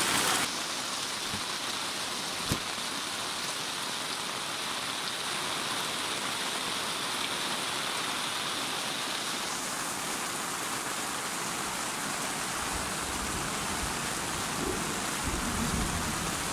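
Heavy rain falling steadily on an awning and the ground, with runoff pouring off the awning's edge. There is one sharp tap about two and a half seconds in.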